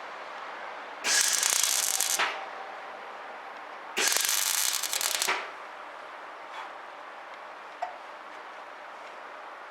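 Semi-automatic (MIG) welder arc crackling in two short welds of about a second each, a few seconds apart, tacking a patch plate onto a vehicle's bulkhead. A few faint clicks follow.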